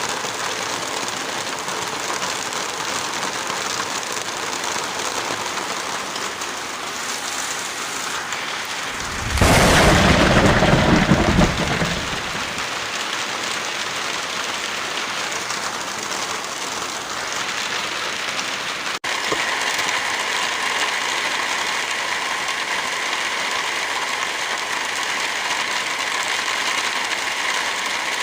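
Heavy rain falling steadily, with a loud rumble of thunder about nine seconds in that lasts around three seconds. Near the two-thirds mark the sound cuts out for an instant and the rain resumes with a steadier, hissier tone.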